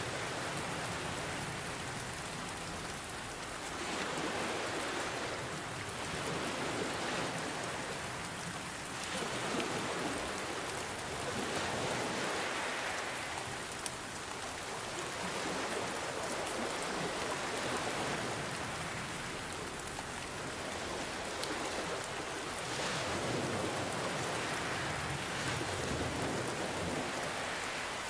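Steady rain hiss mixed with ocean waves, the sound swelling and easing every few seconds as waves wash in and draw back.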